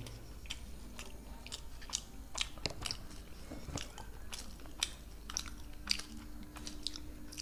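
Two people chewing and biting into crumb-coated vegetable chops close to the microphone: many small, irregular crisp clicks and smacks from the crust and mouths.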